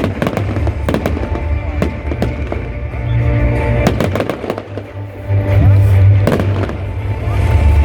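New Year's Eve fireworks going off: many sharp bangs and crackles in quick succession over a deep, continuous rumble, easing briefly a little past the middle and then louder again.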